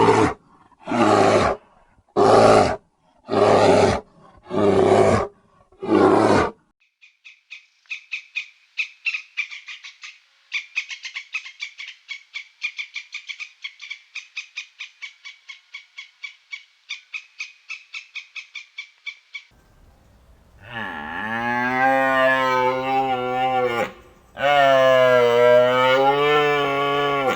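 A sequence of animal calls: six loud, rough calls about a second apart, then a long run of rapid high chirping, then two long, low moos from a cow.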